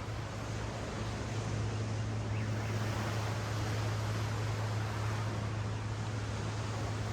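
Ocean surf washing up a sandy beach, a steady rushing hiss that swells and eases, over a steady low hum.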